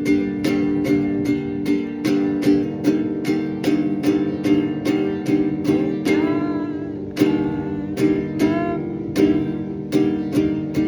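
Music: an acoustic guitar strummed in a steady rhythm, about two strums a second.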